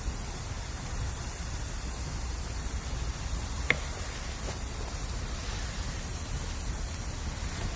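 Bamboo campfire burning with a steady hiss and rush, and one sharp crackling pop about three and a half seconds in, followed by a fainter tick.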